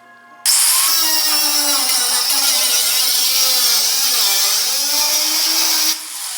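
Handheld high-speed rotary power tool cutting into the car's rusty body metal. It starts abruptly about half a second in, and its whine sags and recovers as it bites under load. Near the end it drops back to a lighter run.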